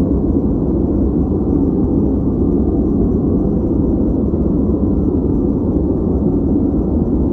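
Steady, unbroken noise track played as a study background, deep and rumbling with little hiss at the top. It holds an even level with no changes.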